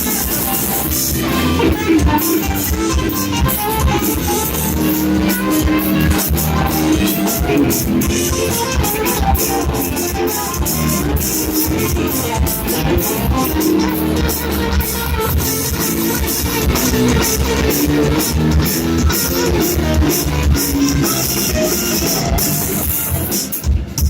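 Rock band playing live, with guitar over a drum kit; the music stops just before the end.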